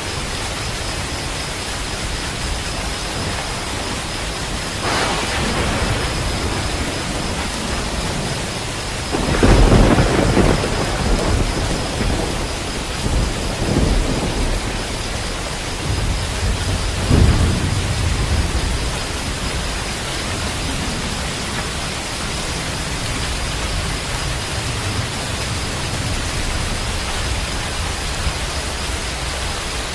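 Steady heavy rain with rolling thunder. A rumble starts about five seconds in, the loudest peal comes around ten seconds and rolls on for a couple of seconds, and two more rumbles follow a few seconds later before the rain carries on alone.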